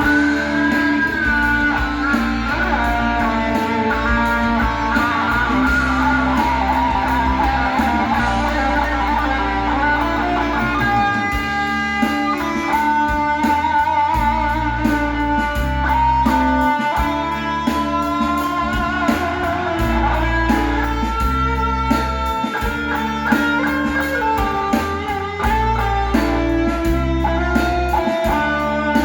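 Instrumental music in D minor: an electric guitar plays a lead melody of held, bending notes over a bass line, with a steady beat.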